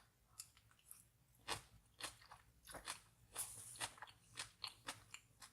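Close-up eating sounds: a person chewing tteokbokki rice cakes in sauce, with faint, irregular wet mouth smacks and clicks.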